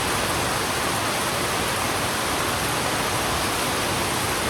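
Heavy rain falling steadily on a road: a continuous, even hiss.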